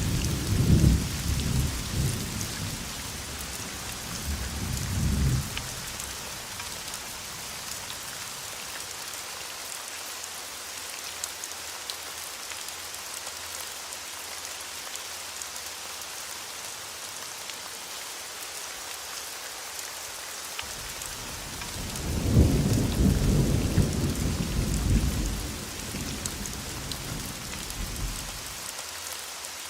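Steady heavy rain hissing on a surface, with two rolls of thunder rumbling through it: one at the very start fading out after about five seconds, and a louder one rising about 22 seconds in and dying away a few seconds later.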